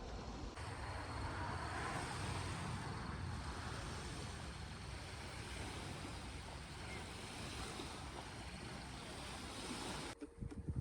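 Steady rushing wind noise outdoors, without a pitched tone. It cuts off abruptly near the end and a few sharp clicks follow.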